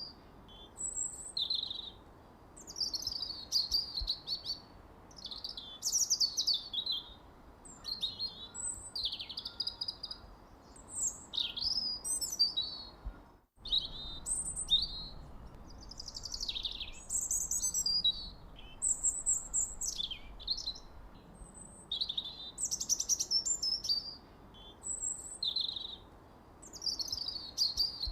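Birds chirping and singing in quick, high, twittering phrases that follow one another with short pauses. The sound drops out briefly about halfway through.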